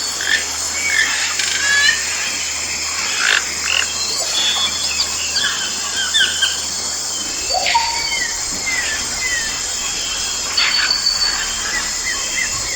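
Tropical forest ambience: a steady chorus of insects and frogs, with many short chirping and croaking calls scattered over it.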